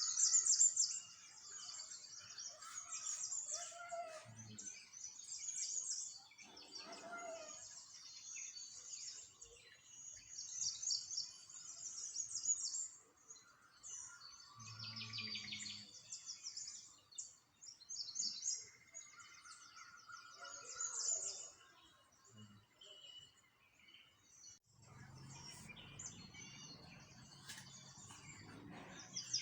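Small songbirds chirping and twittering in quick, high, repeated trills, with phrases coming every second or two. A low rumble comes in for a few seconds near the end.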